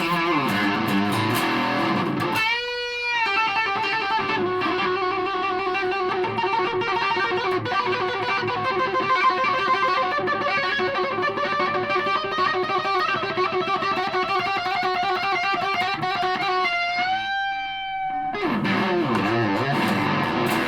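Aria Pro II Thor Sound electric guitar played through a Behringer Super Fuzz pedal: a lead line of long sustained, fuzz-thickened notes with wide vibrato, with string bends about two and a half seconds in and again near the end.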